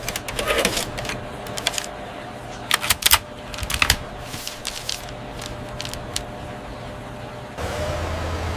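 Irregular metallic clicks and clanks from load-handling gear over a steady low machinery hum. Near the end a louder, steady rushing hiss sets in.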